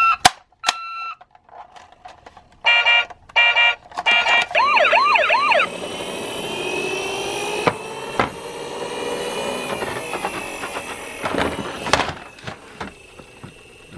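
Short electronic beeps, then an emergency-vehicle siren: a fast warbling yelp for about a second, followed by a longer wailing tone that slowly glides in pitch. A few sharp clicks and knocks sound in the second half.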